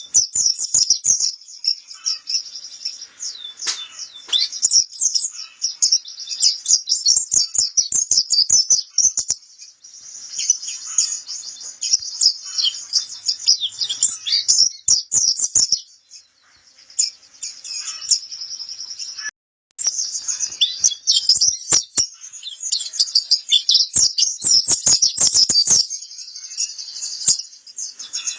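Pleci kapur white-eye singing: a fast, unbroken stream of high-pitched twittering chirps. The song thins out a little past the middle and cuts off for a moment before resuming.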